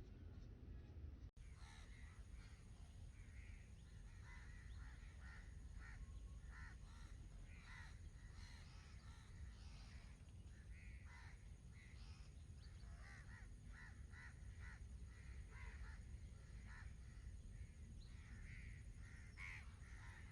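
Birds calling: many short, repeated notes, starting after a brief break about a second in, over a faint steady low rumble.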